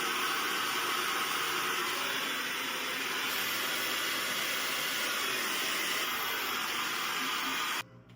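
Handheld hair dryer blowing steadily, an even airy rush that stops abruptly near the end.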